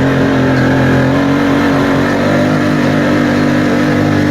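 Engine of an off-road machine running loud at steady revs, its pitch held level.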